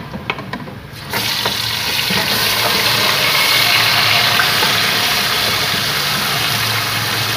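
Marinated chicken hitting hot oil and fried onions in a steel pot, setting off a loud, steady sizzle about a second in. A few light clicks of the wooden spoon against the bowl come just before it.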